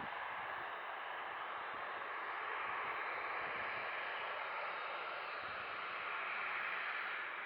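Boeing 737-800 jet engines at takeoff power, heard from a distance as a steady rushing noise that swells a little and eases off at the very end.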